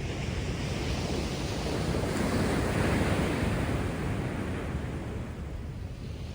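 Heavy surf from a storm-churned sea after a typhoon: a wave breaking and washing in, loudest about three seconds in and then easing off.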